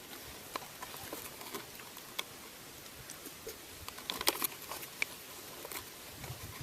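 A homemade spoon clicking and scraping while eating from a freeze-dried scrambled eggs and bacon meal: scattered small clicks, with a quick cluster about four seconds in.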